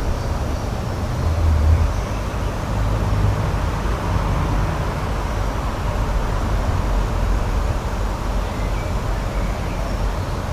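Outdoor nature ambience: a steady rushing noise with a deep rumble under it, and a few faint high chirps.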